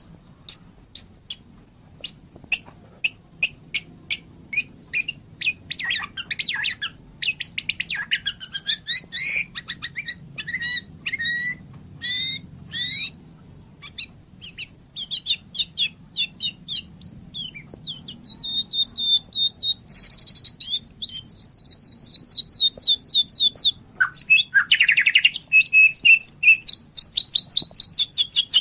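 White-rumped shama (murai batu) singing. It opens with a run of sharp, evenly spaced single notes, then moves into varied whistled phrases. From about two-thirds of the way in come fast trills and chattering runs.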